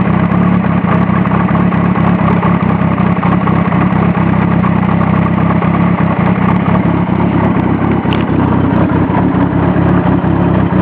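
1984 Kawasaki GPz750 Turbo's inline-four engine idling steadily on a cold start.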